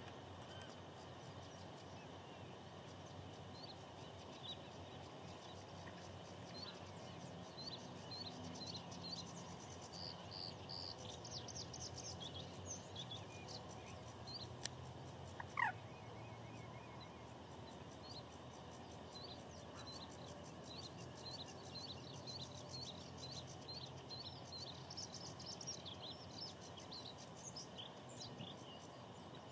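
Bluethroat singing: runs of short, high chirping notes and trills over a steady outdoor background hiss. About fifteen seconds in, one louder whistle glides quickly downward.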